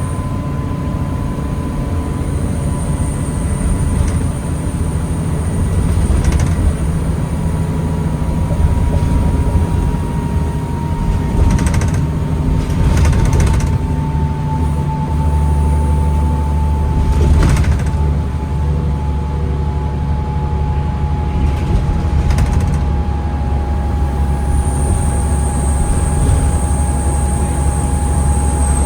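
2009 New Flyer D40LFR diesel transit bus heard from inside, running at low speed in stop-and-go traffic. A steady low engine rumble grows heavier about halfway through, over a faint whine that slowly drops in pitch. A high whine sounds at the start and again near the end, and there are a few scattered knocks and rattles.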